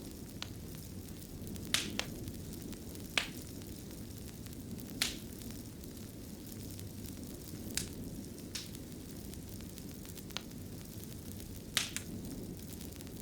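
Wood fire burning in a fireplace: a steady low rumble with sharp, irregular crackles and pops, about eight in all.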